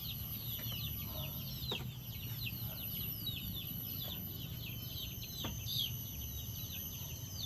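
Birds chirping, a dense run of short quick falling notes several times a second, over a steady high tone and a low background rumble.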